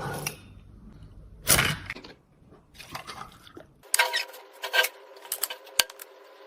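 Clicks, taps and scrapes of small tools and cosmetic containers being handled, a handful of sharp strokes. About four seconds in the sound turns thinner, with a run of sharper clicks.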